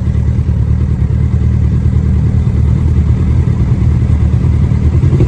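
Kawasaki ZX-10R inline-four engine with its stock exhaust running steadily at low revs, with no revving.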